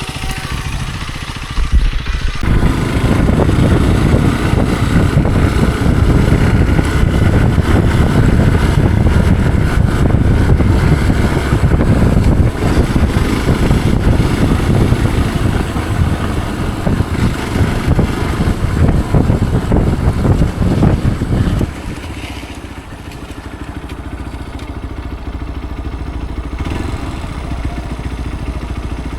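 Off-road motorcycle engine running hard under load with clattering knocks for about twenty seconds, then dropping suddenly to a quieter, steadier running.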